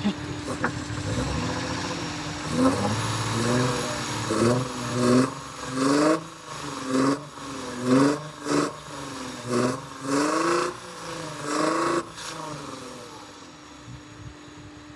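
Hyundai Tiburon V6 engine revved in a run of about ten quick throttle blips, about one a second, each rising and falling in pitch, then dropping back to idle near the end. The engine is misfiring badly, most of all when the revving stops.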